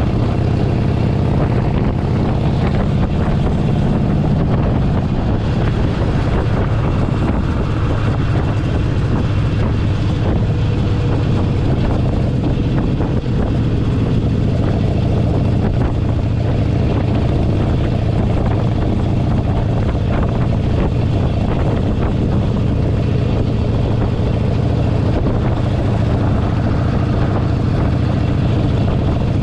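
Harley-Davidson Forty-Eight Sportster 1200's air-cooled V-twin running steadily while cruising, heard from the saddle, with its low, even exhaust note and a constant rush of road noise.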